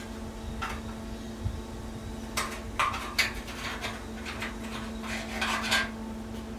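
Hand tin snips cutting sheet steel: a series of irregular short metallic snips and clanks, several coming close together in the second half.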